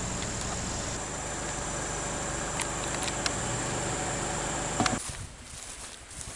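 A car's engine running steadily, heard from inside the vehicle, with a constant high whine. About five seconds in there are a couple of clicks, and then the engine sound cuts off suddenly, leaving quieter outdoor sound.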